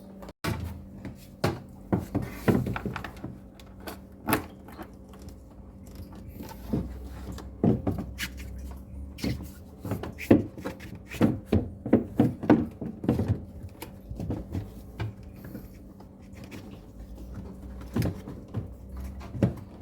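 Irregular knocks, clicks and clatter of refrigerator panels and parts being handled and fitted during a repair, over a steady low hum.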